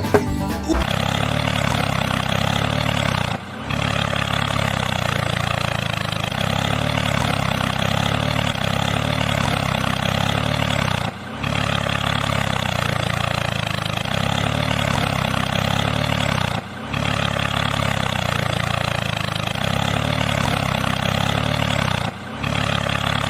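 A small motor running steadily with an even mechanical hum and a hissy whir on top, dropping out briefly four times.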